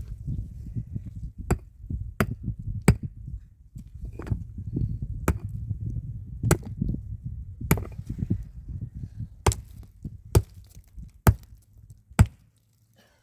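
A tool striking wood again and again, about ten sharp chopping blows roughly a second apart, over a low rumble that fades out near the end.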